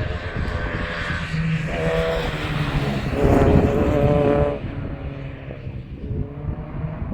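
Sports car engine pulling under load, heard from on board over steady wind and road noise; its note is strongest in two spells, the louder from about three to four and a half seconds in, then eases off.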